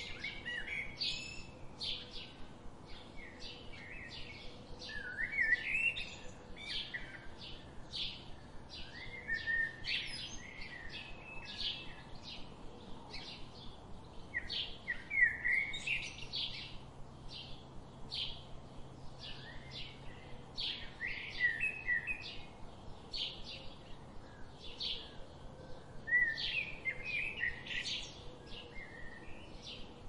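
Birds chirping and singing: a steady run of short, high chirps, with a lower warbled phrase breaking in every few seconds.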